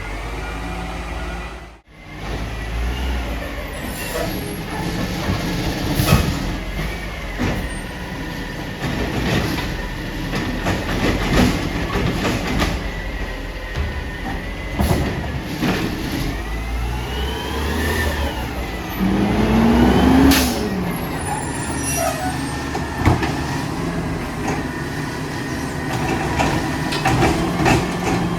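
Mack LR garbage truck with a Labrie Automizer side-loader working at a pickup. The diesel engine runs steadily under a hydraulic whine that rises and falls about two-thirds of the way in, with repeated knocks and clatter and short air hisses.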